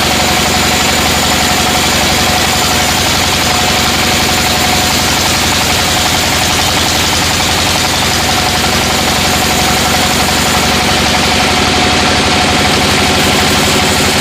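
Sawmill machinery running steadily: a loud, even engine-like drone with a constant whine over it.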